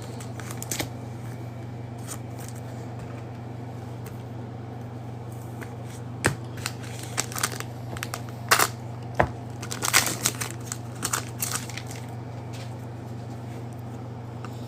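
Trading card pack wrappers crinkling and being torn open in short crackly bursts, from about six seconds in until about twelve, over a steady low hum.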